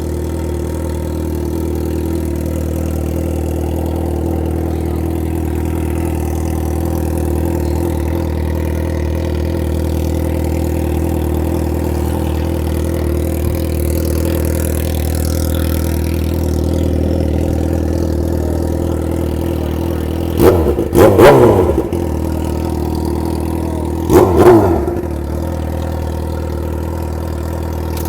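Motorcycle engine idling steadily, then revved hard twice in quick blips near the end.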